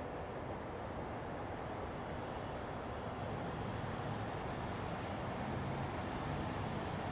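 EF64 electric locomotive hauling a sleeper train, approaching slowly: a steady rumble with a low hum that grows a little louder about three seconds in.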